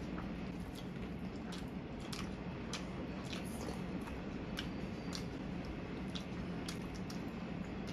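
Close-up eating sounds: irregular wet mouth clicks and smacks from chewing rice and chicken, a few each second, over a steady low hum.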